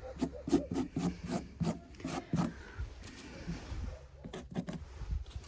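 A quick run of short scraping, rubbing strokes, about two or three a second, thinning out after about two and a half seconds.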